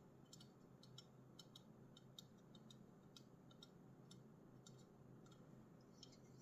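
Light, sharp taps on a Red Bull aluminium drink can, irregular at roughly two to three a second, faint against a quiet background.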